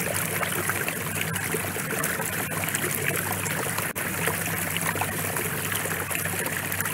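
Steady rain, an even wash of falling-water noise, with a brief dropout about four seconds in.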